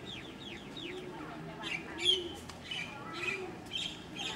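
Birds calling: a run of quick falling chirps about four a second, giving way about a second and a half in to sharper, scattered chirps, over a low call that repeats about once a second.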